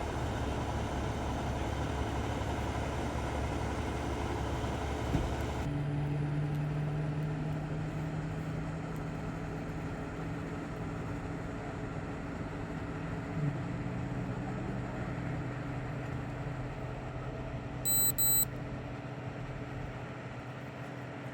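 A vehicle engine idling steadily, its hum changing abruptly about six seconds in. Two short high-pitched beeps come near the end.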